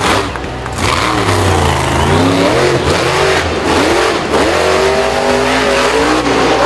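Engine revving, its pitch sweeping up and dropping back several times.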